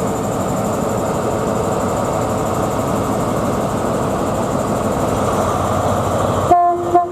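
Class 43 HST diesel power car running steadily and loudly as the train pulls out. About six and a half seconds in the steady noise drops away suddenly and a few short horn tones follow.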